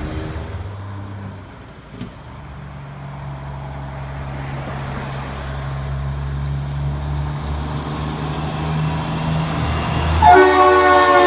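A heavy truck's diesel engine drones steadily, growing louder and a little higher in pitch as it comes closer. About ten seconds in, a loud air horn blasts for about a second.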